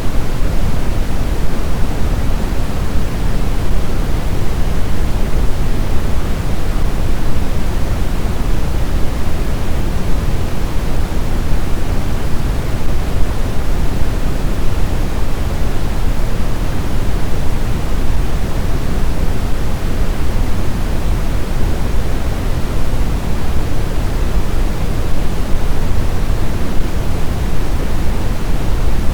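Blizzard wind: a steady, loud rush of noise, heaviest in the low end, with no gusts, whistles or howls.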